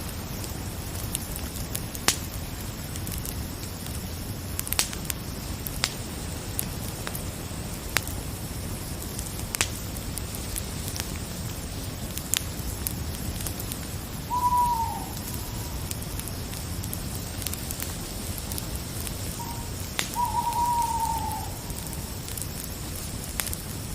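Campfire crackling over a steady hiss, with sharp pops every second or two, and an owl hooting twice about halfway through and again near the end, each hoot a short call that slides down a little in pitch.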